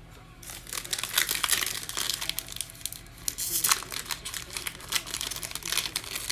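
Plastic wrapper of a trading card pack crinkling as it is torn open and handled. The crackling starts about half a second in and goes on in irregular bursts.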